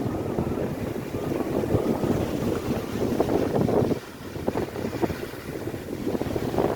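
High wind buffeting the microphone in a gusting low rumble, with Lake Erie's waves crashing on the shore beneath it. The gusts ease briefly about four seconds in, then pick up again.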